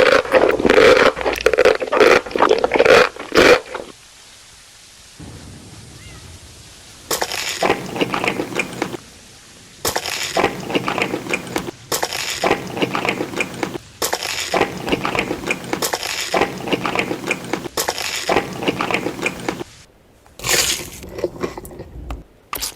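Close-miked crunching and chewing of crispy food in a mukbang, coming in crackly bursts of one to two seconds with short pauses between bites.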